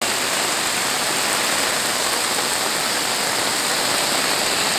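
Heavy rain pouring down onto standing floodwater, a steady, even hiss.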